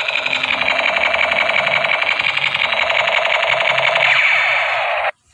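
Battery-powered toy MP5 light gun's electronic firing sound: a loud, fast buzzing rattle that stops suddenly near the end.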